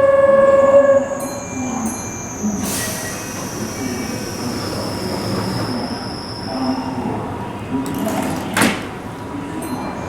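Keihan 6000-series electric train at the platform. A loud steady tone stops about a second in, then a high whine falls slowly in pitch over several seconds, typical of the train slowing. Two sharp knocks come through a steady rumble, one near the start and one about eight and a half seconds in.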